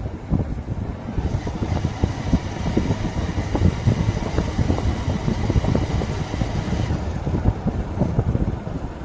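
Riding noise on a motorcycle: wind buffeting the microphone over engine and road noise. From about a second in until about seven seconds, a higher hiss with a faint steady whine joins in.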